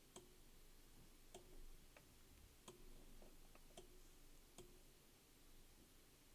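Near silence with several faint, irregularly spaced clicks, typical of a computer mouse being clicked while outlining a zone on a map.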